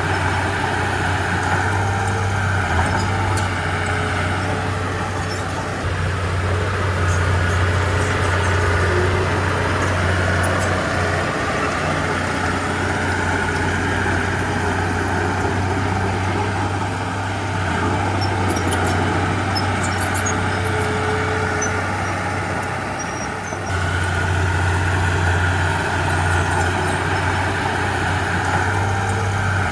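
Komatsu D31P bulldozer's diesel engine running steadily under load, its note easing twice and picking up again, with a few faint metallic clinks.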